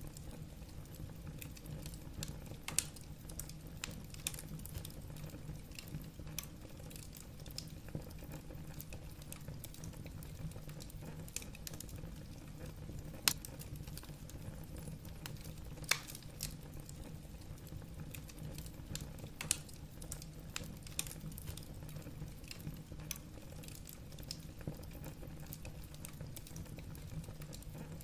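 Wood fire burning in a fireplace, logs crackling with irregular small pops and a few louder snaps over a low steady rumble of the flames.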